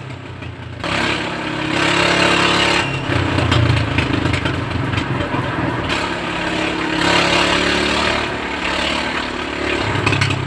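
A vehicle engine revving in repeated surges under heavy load, straining to pull a tree stump out on a chain. It is loudest about three to four seconds in and again near the end.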